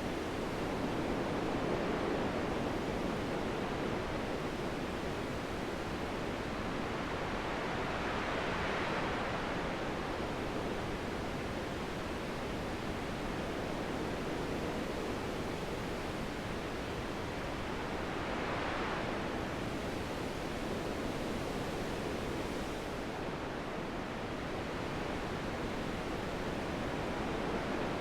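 Wind blowing steadily as a continuous rushing noise, with two gusts that swell and brighten, about a third and about two-thirds of the way through.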